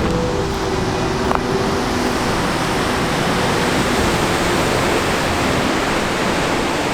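Steady rushing noise of wind and breaking sea waves on a cliff-top coast, with the tail of background music fading out in the first two seconds or so.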